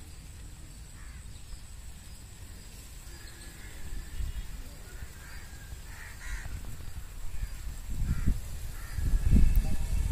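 Birds, likely crows, calling now and then with short calls. Under them runs a low, uneven rumble that grows louder over the last two seconds.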